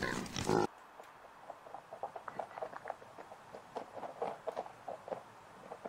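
A pig grunting loudly, cut off abruptly within the first second. Then a quieter run of short chirps, several a second.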